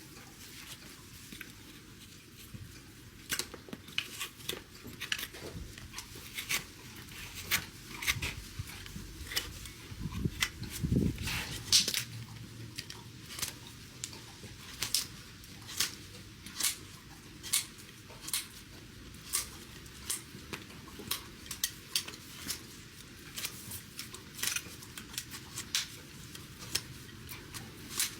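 Hoof trimming tools cutting overgrown hoof horn: a long series of sharp snips and cracks, about one every second, with a louder cluster and a low thump a little before the middle.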